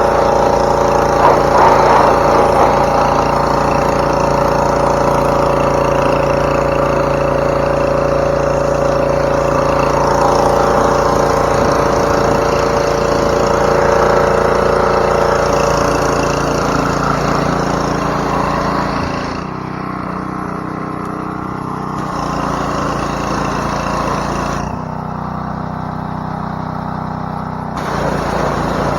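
Pressure washer's small gas engine running steadily under the hiss of the spray. The hiss cuts out twice for a few seconds near the end while the engine keeps running.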